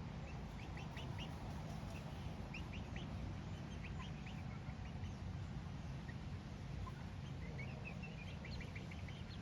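Chickens making short, high chirping calls, scattered and thickest near the end, over a steady low rumble.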